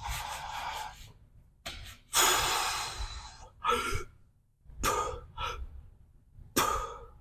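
A man breathing hard: a run of forceful, hissing breaths with short gaps between them, the longest and loudest starting about two seconds in.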